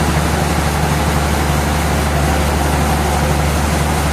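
Sawmill machinery running steadily: an even, low drone with a haze of mechanical noise above it.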